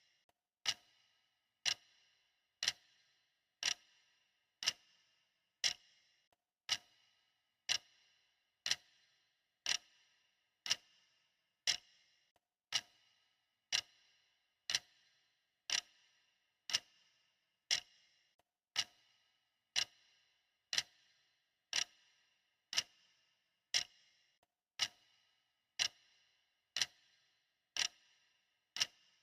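Clock ticking steadily, one sharp tick about every second, each with a short bright ring.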